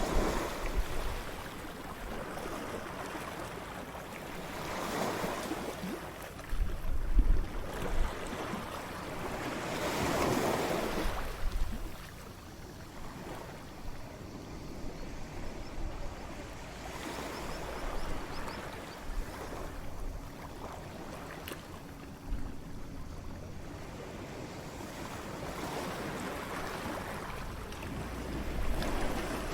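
Ocean waves crashing on the shore: the surf swells up and washes back, loudest about ten seconds in, then a calmer stretch before another wave builds near the end.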